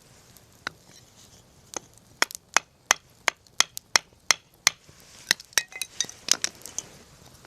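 Wood campfire crackling: a run of sharp pops, about three a second, starting about two seconds in, then a looser cluster of cracks.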